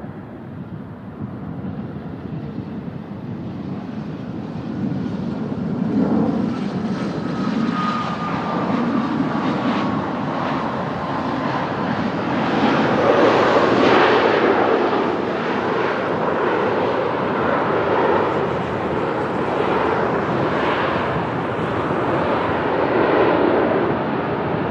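Dassault Falcon 2000EX business jet's twin turbofans passing on arrival. The jet rush grows louder over the first few seconds and peaks about halfway. A thin whine falls in pitch as the jet goes by.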